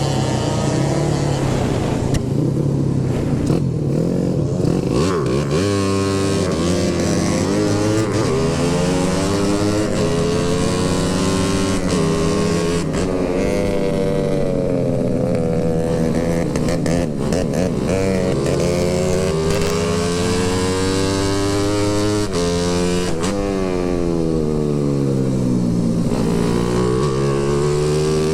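Motorcycle engine on the move, its pitch rising and falling again and again as the rider accelerates and eases off, over a steady rush of wind and road noise.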